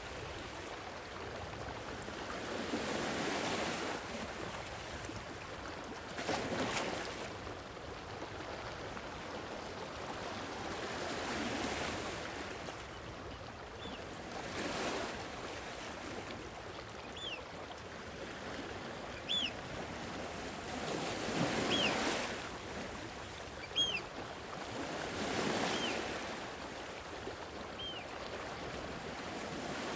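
Sea waves washing ashore in slow surges every few seconds, over a steady wind hiss. In the second half a few faint, short, high calls sound one after another.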